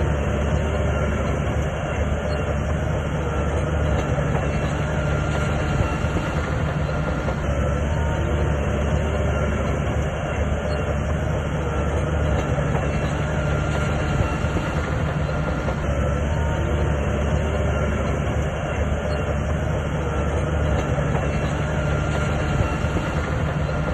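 SHANTUI DH17C2 crawler bulldozer working: its diesel engine drones steadily with the clatter of the steel tracks over it.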